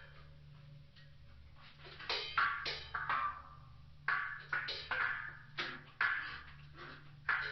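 Percussive strikes with a short ringing decay, about ten of them at uneven intervals after a quieter first two seconds, over a steady low hum.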